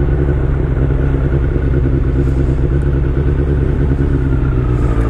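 Motorcycle engine running at a steady speed while riding, with constant low road and wind rumble.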